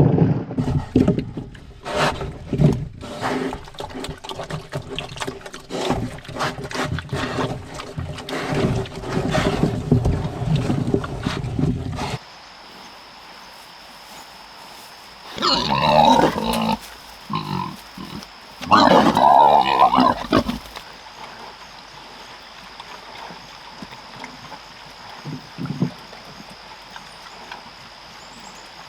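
Pigs grunting and chomping on kitchen scraps and apples: a busy run of wet crunching and smacking mixed with low grunts. About twelve seconds in the sound changes suddenly to a quieter background with a steady high whine, and two loud animal calls come a few seconds apart.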